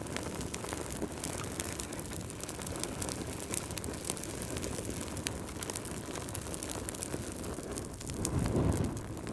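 Wood fire burning with a steady rush and frequent small crackles and pops, with a low rumbling surge near the end.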